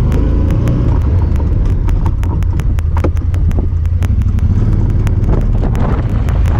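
Honda Talon 1000R side-by-side's parallel-twin engine running under way, a loud, steady low rumble. Over it runs an even ticking of about five clicks a second, a noise made by the camera itself.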